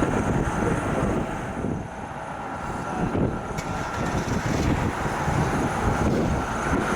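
Jet airliner engines running: a steady rumble with a thin high whine over it.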